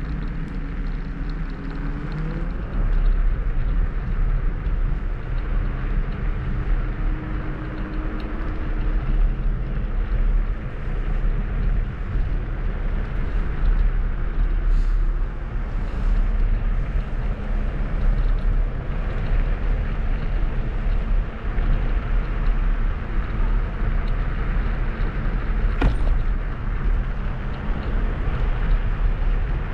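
Steady rumble of wind on the microphone and tyres rolling over a path on a moving Kugoo G2 Max electric scooter, with a single sharp knock near the end.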